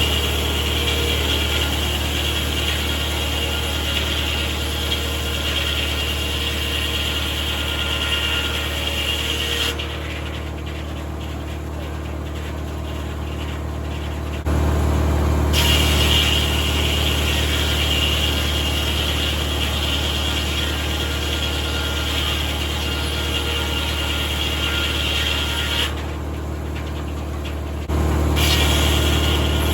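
Tractor engine running steadily to power a 1950 Corley circular sawmill, with a high saw whine that stops about ten seconds in, returns a few seconds later, stops again near 26 seconds and comes back near the end. The engine gets louder each time just before the whine returns.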